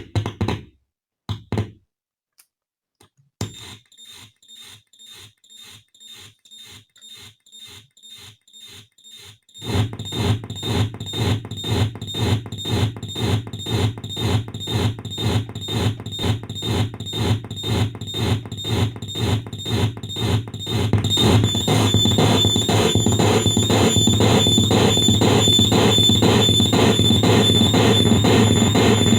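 Homemade PT2399-chip noise delay circuit putting out electronic noise pulses in an even, fast rhythm. After a few short bursts the pulsing starts faint, jumps much louder about ten seconds in, and from about twenty seconds in thickens into a dense sound with a steady high whine and a low hum under the pulses.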